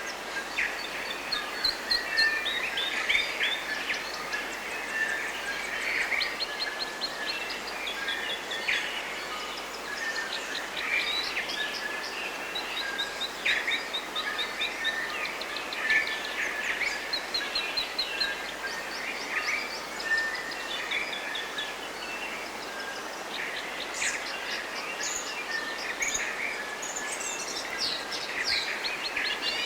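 Forest birds singing and calling, with several overlapping songs and rapid trills of repeated high notes. A steady rushing noise runs underneath.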